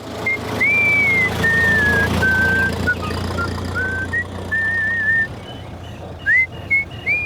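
A cheerful tune whistled in short gliding, warbling phrases over the steady low running of a vehicle engine.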